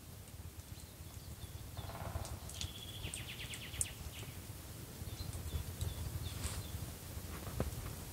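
Birds chirping and calling over a low steady rumble; about three seconds in, one call is a fast trill falling in pitch.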